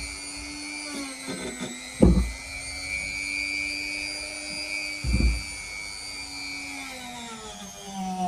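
Dremel rotary tool running at a steady high whine while polishing a steel axe blade, its pitch dropping near the end as it winds down. Two dull thumps sound about two and five seconds in.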